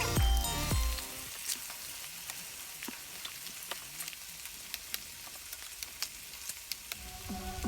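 Pork belly frying on a grill, a steady sizzle with small crackling pops. Background music fades out about a second in and comes back near the end.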